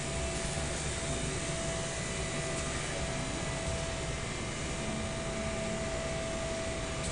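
Steady mechanical hum and hiss with a faint constant tone, unchanging throughout.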